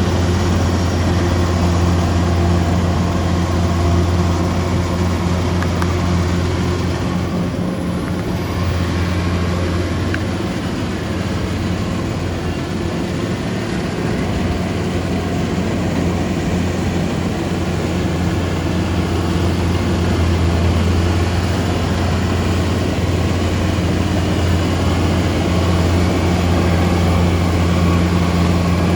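Rice harvesting machine's engine running steadily with a deep, even drone.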